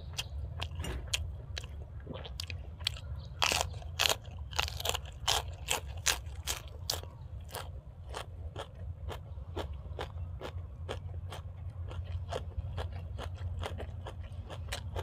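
Close-up chewing and crisp crunching of raw vegetables, a quick run of sharp crunches. The crunches are loudest a few seconds in, then give way to lighter, faster chewing clicks. A steady low hum runs underneath.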